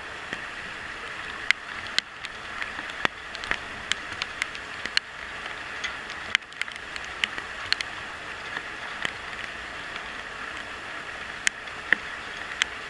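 Steady rain hiss, with irregular sharp taps of raindrops striking close to the microphone, a few of them much louder than the rest.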